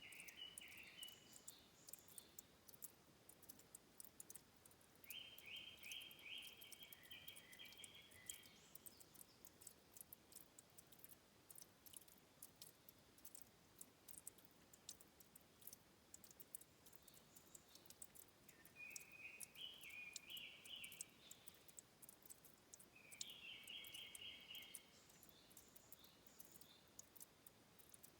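Faint headwater trickle, water dripping in many small sharp ticks. Short runs of rapid pulsed chirps from a small animal come every few seconds, each lasting two to three seconds.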